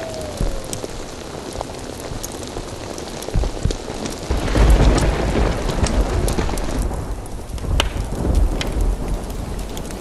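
Heavy rain, with close drops ticking sharply, and a rumble of thunder that swells about four seconds in and dies away a few seconds later.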